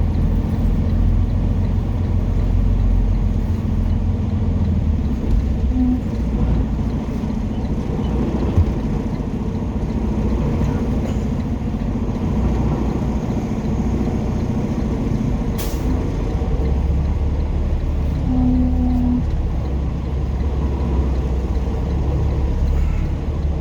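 Semi truck's diesel engine running at low speed, heard from inside the cab while reversing. The engine note shifts about five seconds in and again past the middle, with a short sharp sound about two-thirds of the way through.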